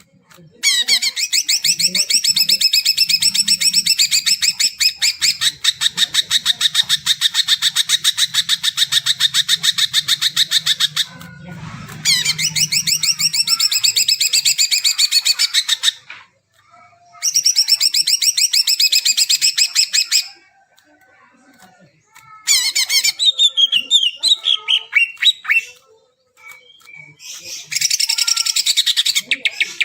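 Green leafbird (cucak ijo) singing in long, loud phrases of very rapid chattering notes, broken by short pauses. This is the kind of song used to spur caged leafbirds into singing.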